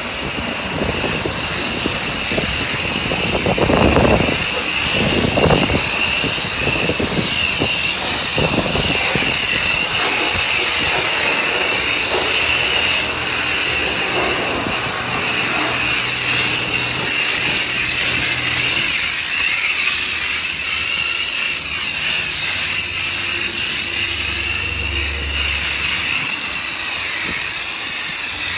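High-pressure wand at a self-service car wash spraying a car: a steady loud hiss, uneven and splashy for the first several seconds, with a faint hum from the pump underneath later on.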